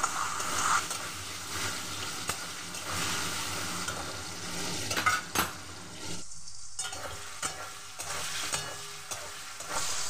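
Cubed potatoes frying in hot oil in a karahi, sizzling steadily. A spatula stirs them, scraping and clicking against the pan now and then.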